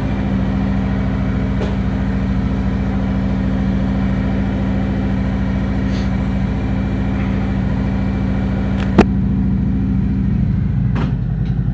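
Harley-Davidson Road King Special's V-twin engine idling steadily with an even, loping pulse. A single sharp click comes about nine seconds in.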